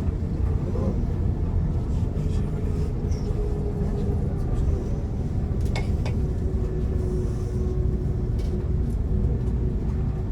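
Steady low rumble of a passenger train running, heard from inside the carriage, with a faint steady whine coming in partway through and a couple of brief clicks near the middle.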